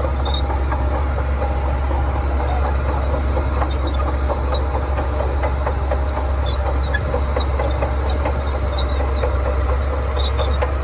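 Shantui bulldozer's diesel engine running steadily, a constant low rumble with scattered light clanks.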